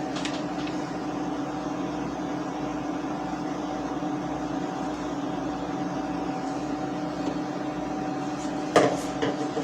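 Steady machine hum with a few held tones in it. A light knock comes just after the start and another near the end.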